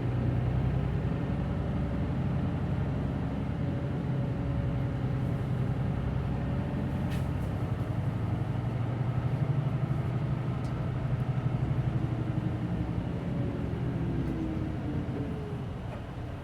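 Cabin sound of a Hino Blue Ribbon City Hybrid diesel-electric city bus under way: a steady engine hum with faint tones that drift up and down in pitch, and a single click about halfway through. It grows quieter near the end.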